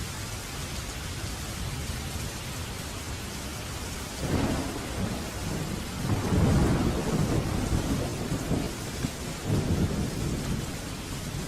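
Steady rain with a roll of thunder: a low rumble breaks in about four seconds in, is loudest a couple of seconds later, and rumbles on with another swell near the end.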